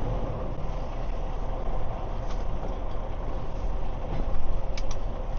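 Semi-truck's diesel engine running at low speed, a steady low rumble.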